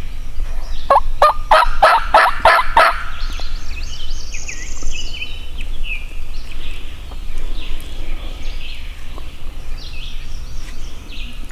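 Wild turkey gobbling once: a loud, rapid rattling run of about eight notes starting about a second in and lasting about two seconds.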